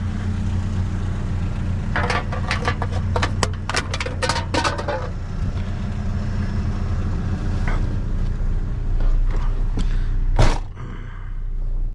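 Vehicle engine idling steadily, with a run of light clicks and rattles about two to five seconds in and one sharp knock near the end.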